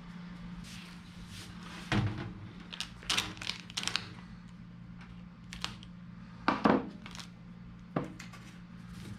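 Handling noises from duct work: a string of separate knocks and rustling scrapes, the loudest a double knock about two thirds of the way in, over a steady low hum.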